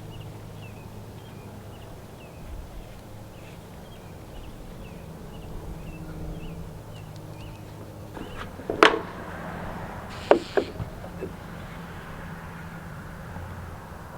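A bird repeating a short chirp about twice a second over a steady low hum, stopping about halfway through. About nine seconds in comes a loud, sharp knock, then two more knocks close together a second and a half later.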